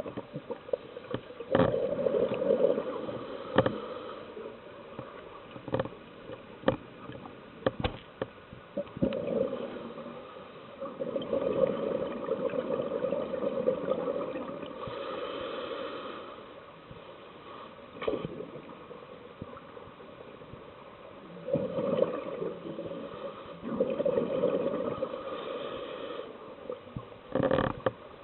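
Scuba diver breathing underwater through a regulator: gurgling bursts of exhaled bubbles lasting a few seconds each, about five times, with sharp clicks between them.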